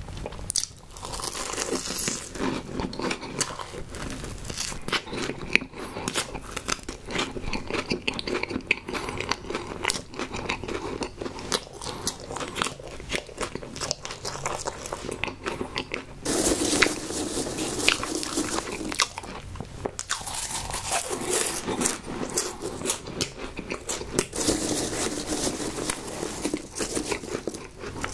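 Close-miked chewing of a mouthful of oven-baked Home Run Ball choux puffs with toasted-marshmallow s'mores dip: crunching and wet mouth sounds, louder in two stretches past the middle and near the end.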